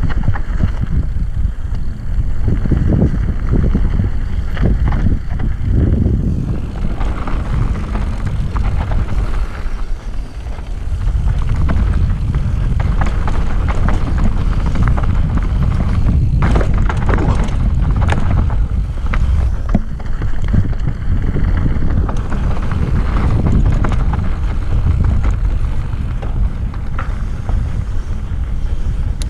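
Wind buffeting the microphone on a mountain bike descent, over the clatter and rattle of the bike and tyres on a rough trail, with a cluster of sharper knocks about two thirds of the way through.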